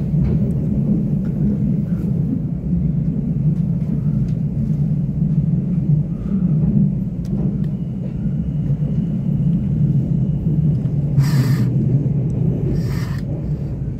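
Steady low rumble of a moving passenger train, heard from inside the carriage. Two brief sharp noises come near the end, about two seconds apart.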